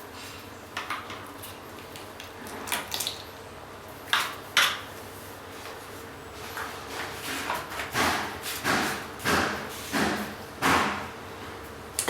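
Handling knocks and clicks of a damp-proof cream injection gun, then a run of regular squeezing strokes about every 0.7 s as the cream is pumped.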